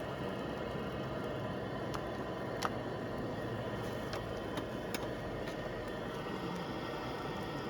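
Wood campfire burning: a steady hiss with a handful of sharp crackles and pops, the loudest a little under three seconds in.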